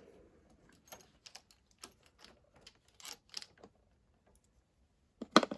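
Workshop handling noise from hand tools and small motorbike parts: irregular light clicks and taps, with a louder cluster of knocks about five seconds in.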